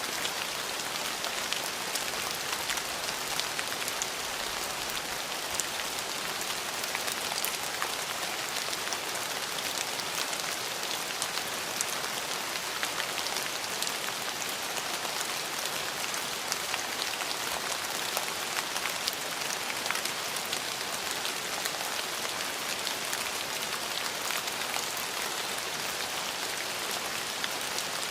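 Steady rain falling, with a dense hiss and many small drop ticks on hard surfaces.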